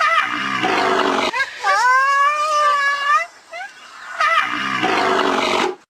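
Rhinoceros calls: three loud, rough bellows mixed with squealing pitched cries, the last cutting off suddenly.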